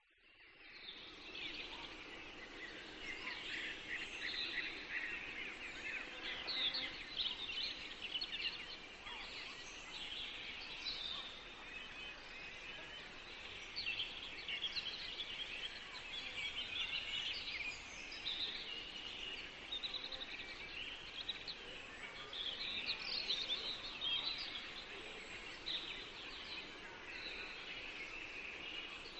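A chorus of forest songbirds, many short overlapping chirps and trills, over a steady outdoor background hiss. It fades in from silence at the start.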